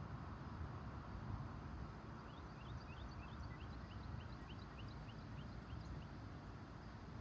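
Steady low background rumble with no siren sounding. From about two seconds in until near six seconds, a bird sings a rapid series of short rising chirps, about three a second.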